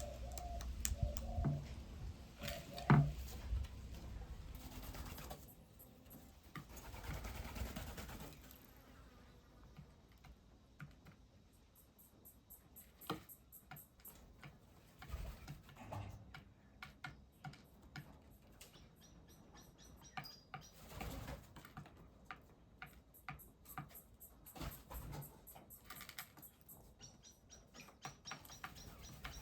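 Birds at a feeding and bathing spot: a dove's low cooing near the start, wings flapping now and then, and many quick light clicks, with faint high chirps later on.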